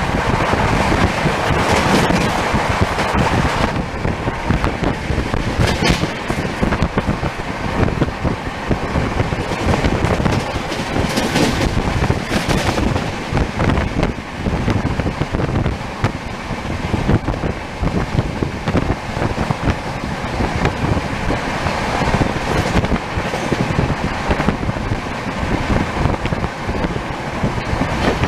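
Train running at speed, its wheels and coaches rattling on the track, with wind buffeting the microphone and a few brief sharp clatters.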